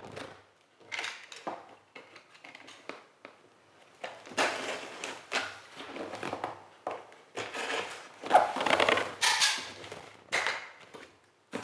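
Cardboard box being opened and its packaging handled: a string of irregular rustles, scrapes and small knocks.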